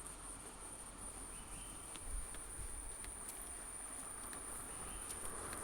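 Steady high-pitched drone of insects in vegetation, with a few faint ticks.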